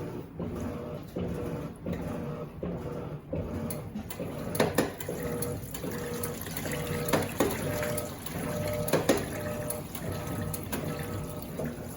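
Electrolux LTD15 top-loading washing machine churning a load in water. A motor tone repeats in a steady back-and-forth rhythm over sloshing water, with a few louder splashes along the way.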